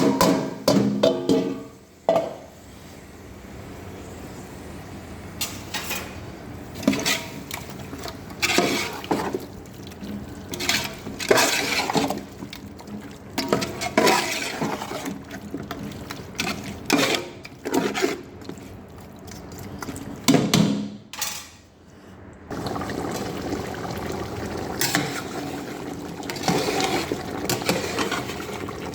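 Kitchen work sounds: repeated clinks and knocks of utensils against dishes, with liquid sounds. A steadier rushing noise, like running water, takes over for about the last six seconds.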